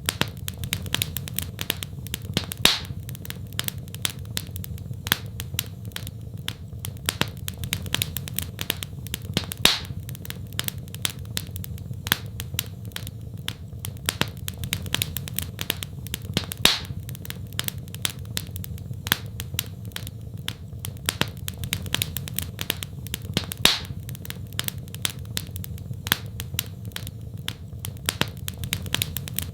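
Wood fire crackling steadily, with many small snaps and a louder pop every few seconds over a low steady rumble of the flames.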